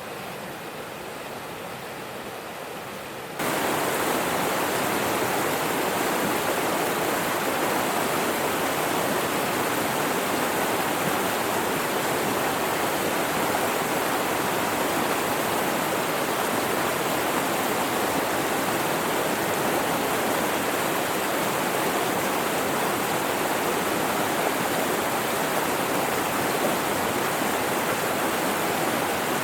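Mountain river water rushing steadily over rocks, an even roar that jumps louder about three seconds in and then holds steady.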